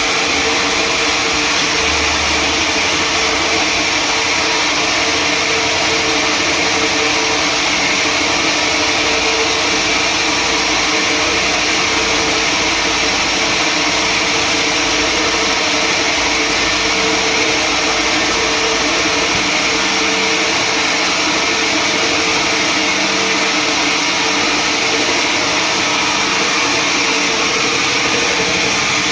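Sawmill machinery running steadily: a loud, unchanging motor and saw noise with a constant whine.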